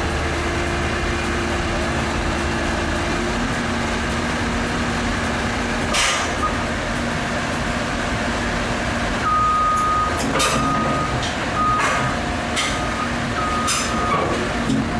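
Heavy diesel machinery running steadily, with a few sharp metallic knocks. In the second half a repeating warning beeper sounds several times.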